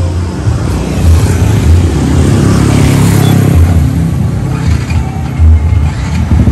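Motorcycle engine running, its revs rising about two seconds in and dropping back a couple of seconds later.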